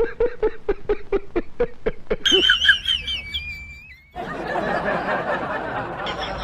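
Giggling laughter, a fast run of short 'ha' pulses, about seven a second, for the first two seconds. It is followed by a brief wavering high-pitched squeak, then from about four seconds in a steady rushing noise.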